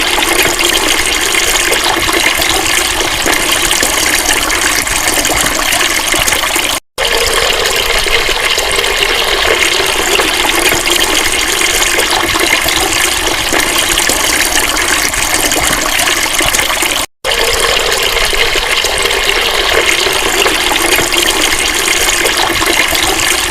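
Flowing water rushing steadily, cut off for an instant twice, about seven and seventeen seconds in.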